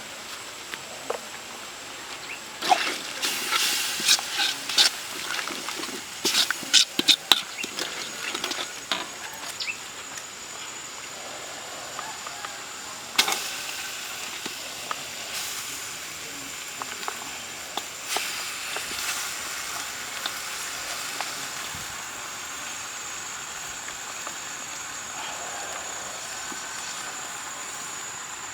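Cooking sounds: a quick run of sharp clicks and knocks in the first third, one more sharp knock a little later, and sparse small clicks over a steady hiss with a thin high whine.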